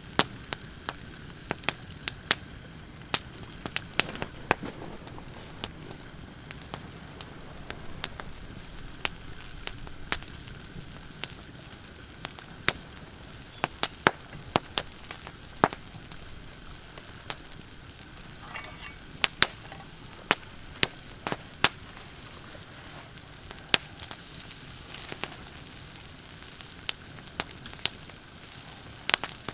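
Campfire crackling, with sharp pops at irregular intervals over a steady hiss.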